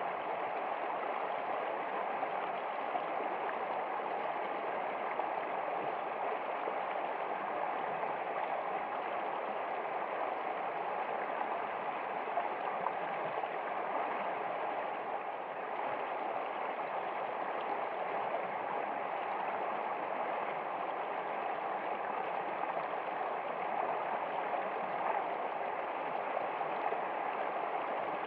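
Steady running water of a stream, an even, unbroken rush and gurgle.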